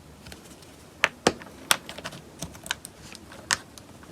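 Irregular small hard clicks and taps of plastic action-figure parts being handled, about a dozen in a few seconds, the loudest clustered about a second in and a sharp one near the end.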